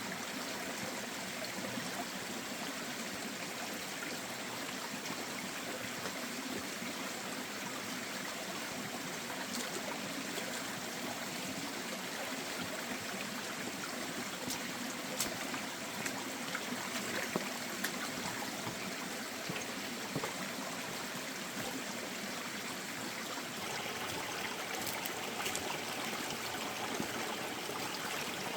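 Steady rush of running water, like a small stream or flowing trickle, with a few faint ticks over it.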